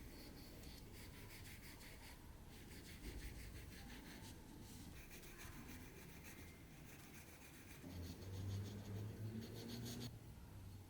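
Faint, rapid scratching strokes of hand-tool work on the old knife, coming in short runs.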